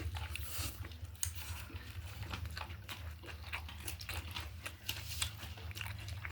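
Close-up eating sounds: a person chewing and biting food, with irregular small crunches and wet clicks, over a steady low hum.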